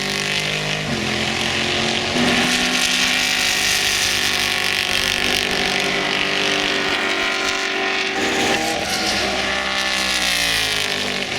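Cadillac CTS-V race car's engine running very loud on track, its pitch changing in steps several times and falling away near the end.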